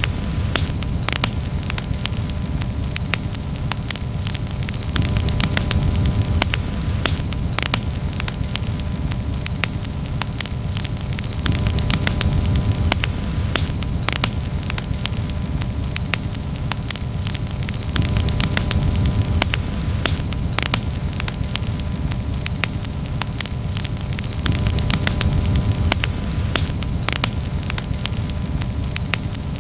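Wood campfire burning, crackling with frequent irregular sharp pops over a steady low rumble.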